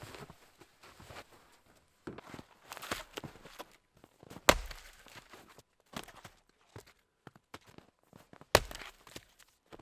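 Wood being chopped: two hard chopping strikes about four seconds apart, with softer crunching, scraping and small knocks between them.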